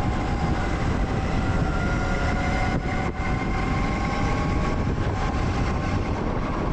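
Zero FX electric motorcycle under way, its motor giving a steady whine that drifts slightly in pitch. Heavy wind rumble on the microphone runs under it.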